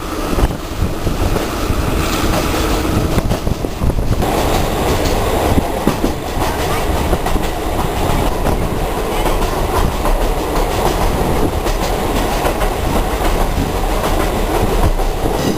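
Train running along the track: a loud, steady rumble with many small knocks from the wheels and rails. It grows fuller about four seconds in.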